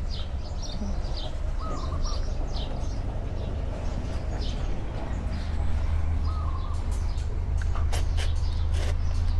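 Small birds chirping here and there in the background over a steady low rumble, with a few sharp clicks near the end.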